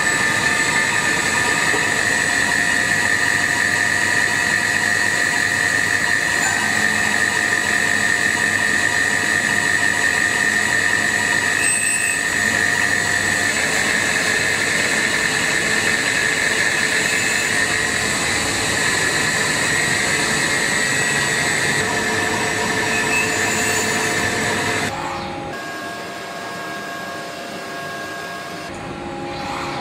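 CNC mill-turn machine running, a steady whine of several tones over a noisy hiss. About 25 seconds in, it drops quieter and the pitch of the whine changes.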